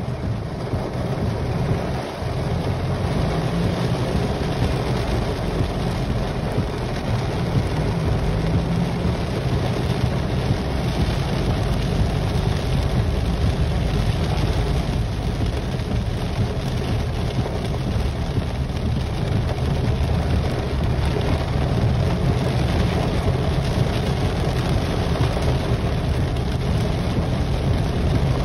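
Heavy rain falling on a car's roof and windshield, heard from inside the cabin, over the car's steady low rumble as it drives on the wet road.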